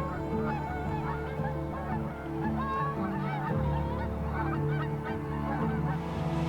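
Geese honking repeatedly in a series of short calls, over background music.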